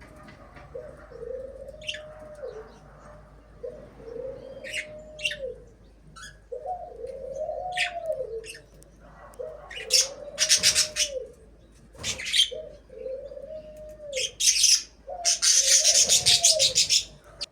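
A dove cooing over and over in a steady rhythm, about seven low arched coos. Small birds chirp sharply above it, and there are loud harsh rasping bursts about ten seconds in and again near the end.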